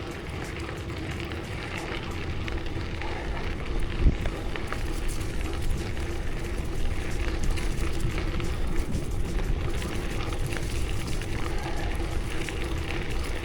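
Wind rushing over the microphone and tyre noise from a bicycle being ridden, with a single thump about four seconds in.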